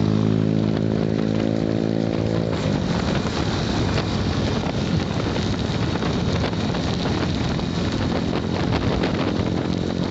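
Motorcycle riding in heavy rain: the engine holds a steady note for about two and a half seconds, then a loud rushing of wind and rain on the microphone takes over and covers it.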